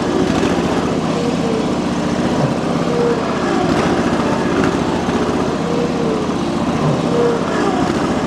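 John Deere 445 garden tractor's engine running hard under load as it drags a heavier compact tractor with locked wheels, its pitch rising and falling as the load shifts.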